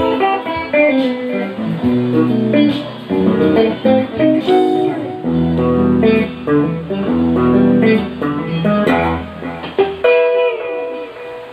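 Guitar playing a neo-soul piece: plucked chords and melodic fills over low bass notes, ending about ten seconds in on a chord that rings out and fades.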